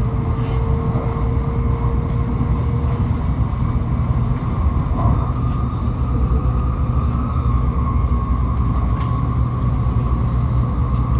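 Shinkansen train running, heard from inside the passenger car: a steady low rumble and hiss, with a faint whine that rises slightly over the first few seconds and then fades.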